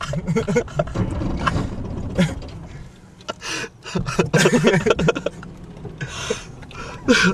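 People's voices, with unclear words and short breathy bursts, over the steady low rumble of a pickup truck.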